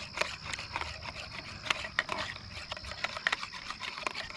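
A utensil stirring enchilada sauce and sour cream together in a bowl: irregular scraping and clicking against the bowl.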